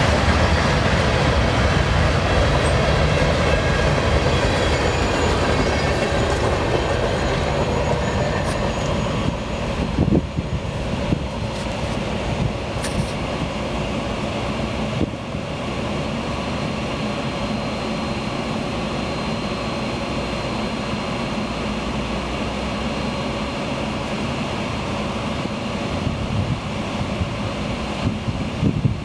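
Freight train cars rolling past at close range: a continuous rumble and clatter of steel wheels on the rails, easing slightly about ten seconds in.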